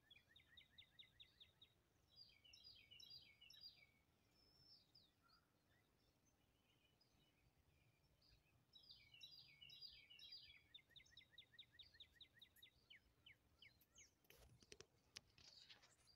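Faint songbird song: two phrases of quick chirped notes running into a rapid trill, about nine seconds apart, over a low outdoor hush. Near the end, a few sharp clicks and knocks.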